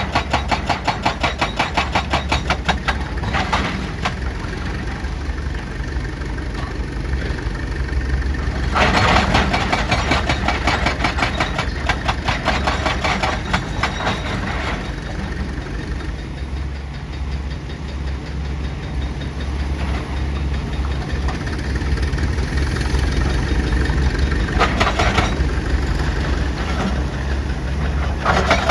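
Heavy diesel machinery running steadily with a rapid, even pounding over the engine hum, the pounding growing stronger in stretches near the start, in the middle and near the end.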